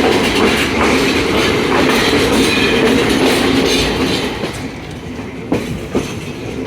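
Passenger train running along the rails, heard from on board: a steady running noise with scattered clicks. It grows quieter about four and a half seconds in, with two sharp clacks near the end.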